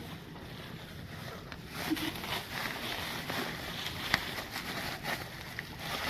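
Plastic tarpaulin rustling and crackling as it is pulled over the roof and tucked under wooden poles, growing louder about two seconds in, with a sharp click about four seconds in.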